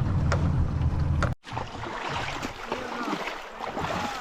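A boat's engine running steadily with wind buffeting the microphone, cut off abruptly after about a second and a half. It gives way to a quieter scene with faint voices.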